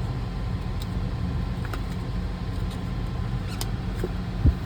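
Steady low background rumble, with a few faint clicks and a short low thump near the end.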